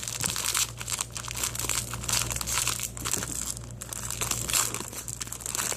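Plastic wrapper of a Dr Pepper Twizzlers package crinkling and rustling irregularly as it is pulled open by hand without a tear tab, over a steady low hum.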